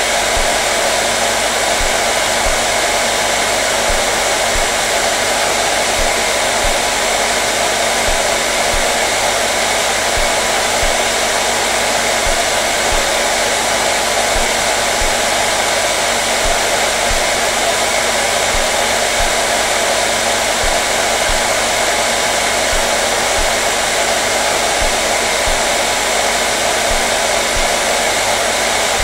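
Hair dryer running steadily: a continuous, unchanging blowing noise with a steady motor hum underneath.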